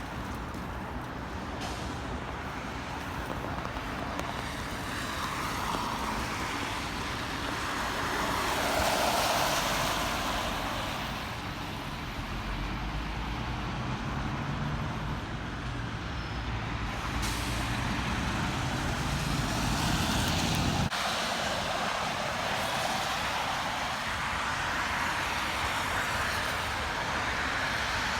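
Road traffic: a heavy vehicle's engine runs with a steady low drone, and tyre hiss on the road swells as vehicles pass. The engine drone cuts off suddenly about three-quarters of the way through.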